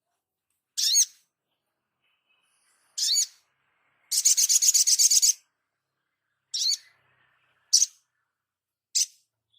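Small songbird calling: sharp, high, sweeping call notes every second or two, and in the middle a fast trill of about ten notes a second lasting just over a second.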